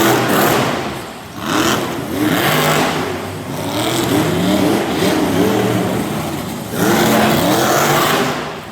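Monster truck engines revving hard during a race, the pitch repeatedly climbing and falling with the throttle. The loudness dips briefly about a second in and again near the end.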